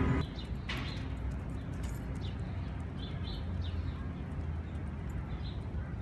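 Small birds chirping: several short, high chirps scattered through, over a steady low background rumble.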